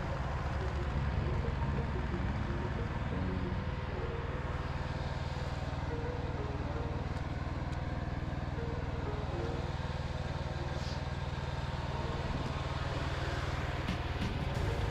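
Dzik-2 mini tractor's engine running steadily at an even speed, with a few light clicks or knocks near the end.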